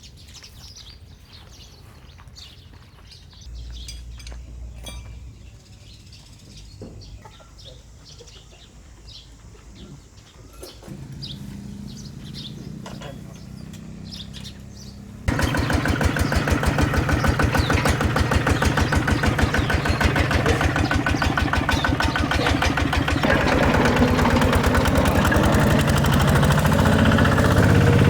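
A ride-on mini tractor's engine runs. It is low and faint at first, with birds chirping, then suddenly much louder and closer about halfway through, with a fast even beat. Its pitch shifts in the last few seconds.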